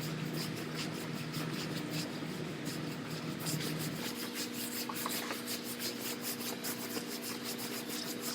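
Hand block-sanding of primer on a car body panel: quick back-and-forth scratchy strokes of sandpaper on a sanding block, over a steady low hum.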